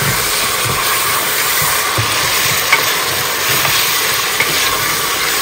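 Meat korma frying in hot oil in an aluminium pot, sizzling steadily while a spatula stirs it, with a few light scrapes and clicks of the spatula against the pot.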